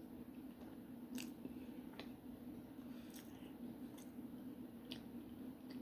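Faint chewing of someone eating, with a few sharp wet mouth clicks about a second apart, over a steady low hum.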